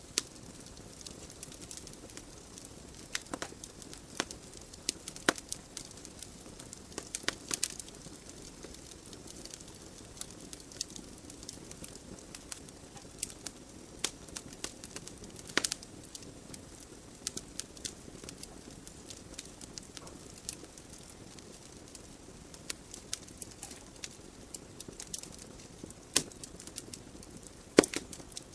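Wood fire burning in a fireplace: irregular sharp crackles and pops from the burning logs over a soft steady hiss of the flames, with a few louder pops, one about halfway and one near the end.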